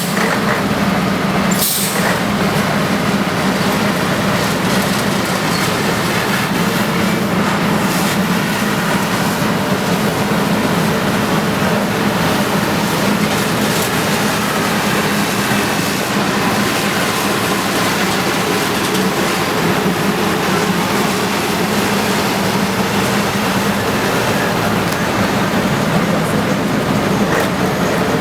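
Bulldozer's diesel engine running steadily, with a sharp knock about two seconds in.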